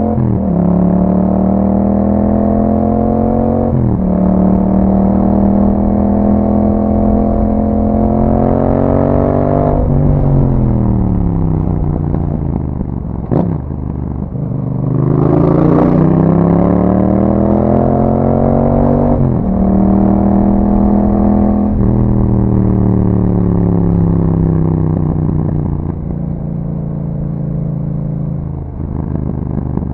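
2021 Yamaha MT-07's parallel-twin engine through an Akrapovic exhaust with a dB killer, ridden under acceleration. The pitch climbs through the gears with quick drops at each upshift, falls for a few seconds around the middle with a sharp click as the bike slows, then climbs again through two more upshifts and settles to a steady cruise.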